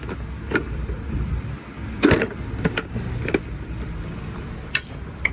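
Tractor diesel engine idling steadily, with about half a dozen sharp clicks and knocks on top, the loudest about two seconds in.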